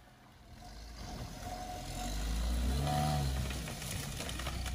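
Off-road vehicle's engine revving under load, growing louder over the first two seconds, its pitch rising and falling once near the middle.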